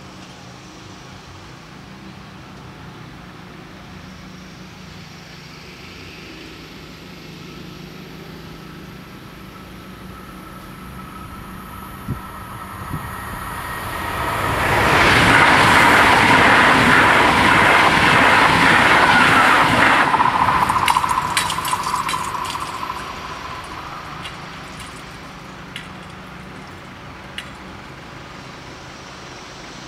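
ICE high-speed train passing the level crossing at speed: a rush of wheel and air noise with a steady whine swells about fourteen seconds in, stays loud for about six seconds, then fades, with a few sharp clicks as it dies away.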